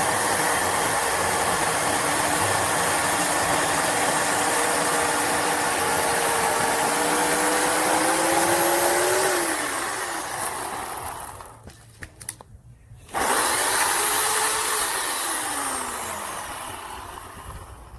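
WEN CP1014 corded 10-amp electric chainsaw running steadily at full speed. Its pitch climbs a little, then it winds down after the trigger is let go. After a short pause it is triggered again, starts abruptly, runs briefly and winds down again near the end.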